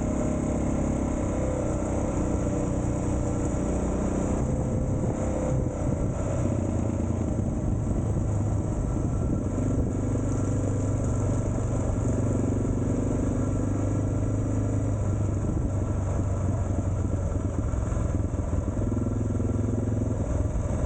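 Suzuki DR650's single-cylinder four-stroke engine running steadily, its pitch shifting slightly now and then with the throttle.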